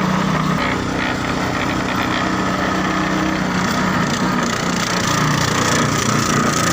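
A small engine running steadily under load.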